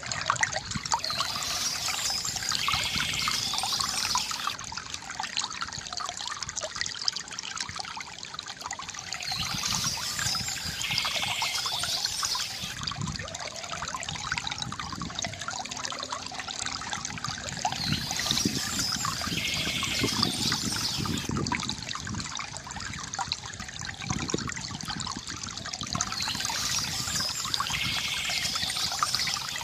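Water trickling and splashing steadily from a bamboo fountain. Higher chirping sounds recur about every eight or nine seconds.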